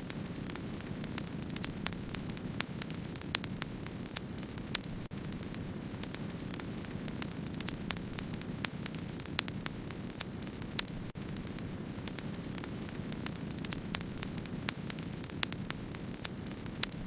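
Wood fire burning: a steady low rush of flame with frequent, irregular sharp crackles and pops.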